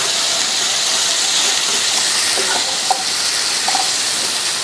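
Cauliflower florets frying in oil and spice masala in a nonstick pan over a raised flame, a steady sizzling hiss. A spatula stirs them, with a few light knocks against the pan about halfway through.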